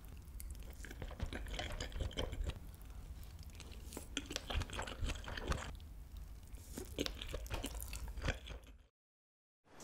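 Close-miked chewing of soft kimchi fried rice with melted cheese and fried egg: small wet smacks and mouth clicks, coming in three clusters, about a second in, about four seconds in and about seven seconds in. The sound cuts off suddenly to silence near the end.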